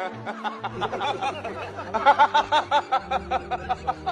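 A person laughing in quick repeated bursts, strongest about halfway through, over background music.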